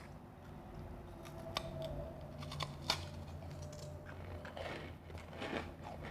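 Refrozen powdery ice being bitten and crunched close up: a few sharp snaps about one and a half and three seconds in, then a run of crunching near the end.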